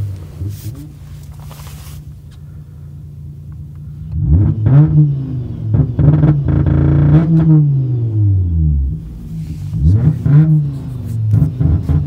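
Volkswagen TDI diesel engine idling, then about four seconds in revved hard against a WOT Box two-step launch limiter. The revs rise, hang at the limiter's cap with a pulsing stutter, drop back, and are run up against it twice more.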